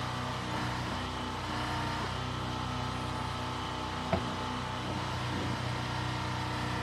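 Engine of an old piece of heavy equipment running steadily at idle, with one sharp knock about four seconds in.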